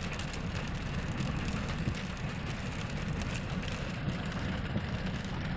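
Big truck's engine running steadily, a low drone with road noise.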